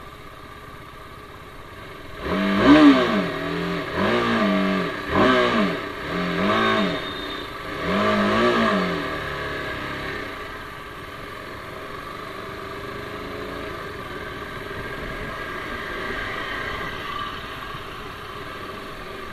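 TVS Apache RR310's single-cylinder engine revving up and dropping back about five times in a row, then running steadily at a lower, even pitch.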